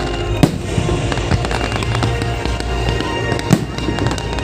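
Fireworks going off in a continuous rumble of bursts, with sharp single bangs about half a second in and about three and a half seconds in. Music plays along underneath.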